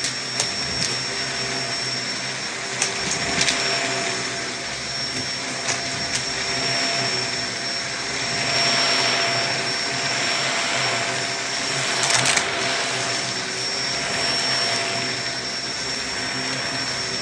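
Vacuum cleaner running steadily on a rug with a constant whine, swelling and easing every few seconds as it is pushed back and forth. Scattered sharp crackles and clicks come from bits of debris being sucked up.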